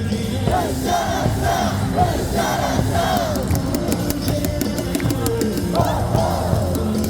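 Baseball cheering-section crowd chanting a cheer song in unison over loud amplified stadium music, in repeated short chanted phrases.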